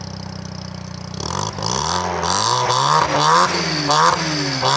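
Rotary car engine idling, then from about a second in blipped hard again and again, the revs rising and falling about every three quarters of a second: free-revving to make the exhaust shoot flames.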